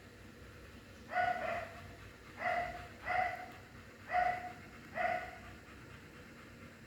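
A dog barking: five short barks spaced roughly a second apart, then it stops about five seconds in.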